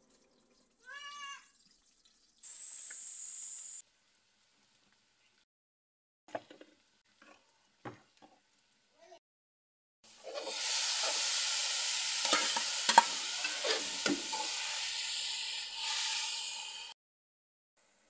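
Chopped tomatoes, onions and green chillies sizzling in hot oil in a metal pan, with a metal spatula scraping and clacking against the pan as they are stirred. The loud sizzle comes in about ten seconds in and cuts off suddenly near the end, after a short burst of hiss and a few light knocks earlier.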